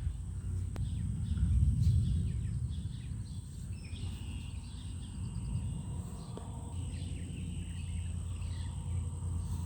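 Outdoor ambience of birds chirping over a steady, high-pitched insect drone, with a low rumble on the microphone that is strongest about two seconds in.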